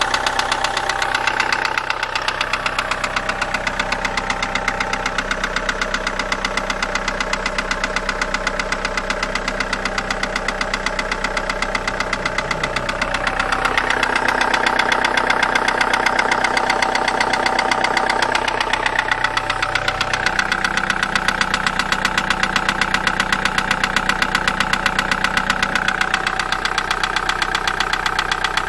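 SsangYong D20DT 2.0-litre four-cylinder turbodiesel running at idle with a steady, rhythmic knock, the fault being investigated. It runs a little louder for several seconds about halfway through, then settles.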